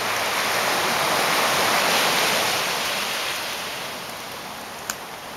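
Ocean surf: a wave washes in, its hiss swelling to a peak about two seconds in and then slowly receding. A single short click comes near the end.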